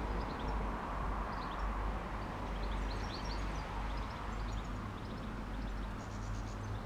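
Small birds chirping and twittering, many short high notes scattered throughout, over a steady low rumble.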